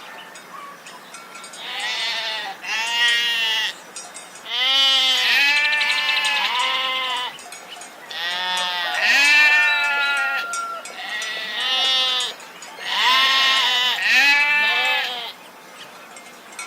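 Repeated bleating: about seven calls in a row, some short and some long and quavering, at different pitches, as from more than one animal.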